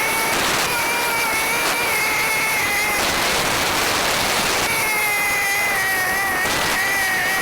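A BMW F850GS motorcycle being ridden: steady wind and road noise on the camera with a high, slightly wavering whine over it.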